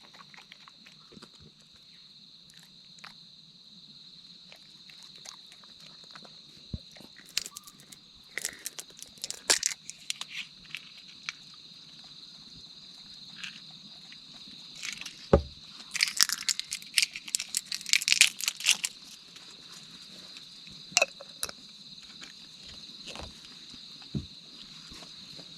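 Insects chirring in a steady high drone. Close, sharp clicks and clatter come in bursts about seven seconds in and again around fifteen to nineteen seconds.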